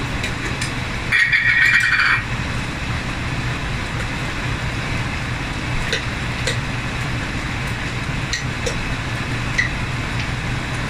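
Chicken pieces sizzling in oil in a large karahi over a steady low hum, with a louder burst of hiss about a second in. Later come a few light clicks of a metal spoon against a glass jar as paste is spooned into the pan.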